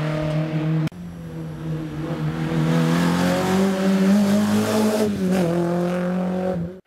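Rally car engine running hard, cut off abruptly about a second in; then another rally car engine under load, its note climbing slowly for several seconds and dipping about five seconds in.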